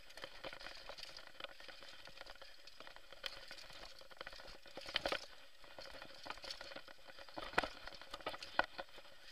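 Mountain bike clattering down a rough trail: dense, irregular rattling of the chain and frame, with a few louder knocks about five, seven and a half and eight and a half seconds in.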